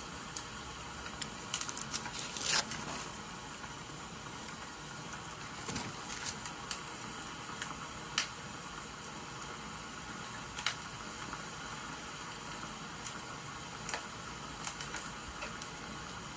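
Wood fire crackling with irregular sharp pops, a small flurry of them about two seconds in, over a steady rain-like hiss.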